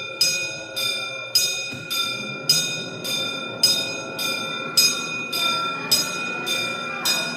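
Railway level-crossing warning bell ringing steadily, a bright ding repeated a little under twice a second.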